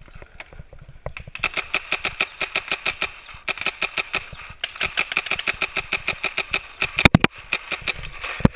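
Paintball marker firing in long, rapid strings of evenly spaced shots, with a couple of brief breaks, and a louder sharp crack near the end.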